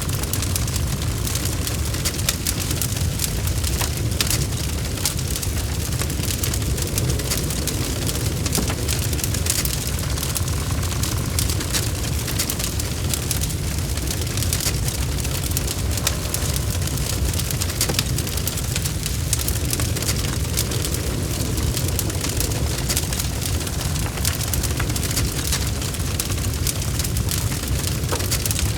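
Wood logs burning in a fireplace: a steady low rumble of the fire with many small, sharp crackles and pops throughout.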